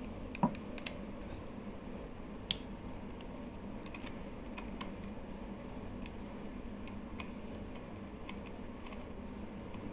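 Irregular small clicks and taps of a plastic hair trimmer being handled and taken apart, with a sharper knock about half a second in and a crisp click about two and a half seconds in.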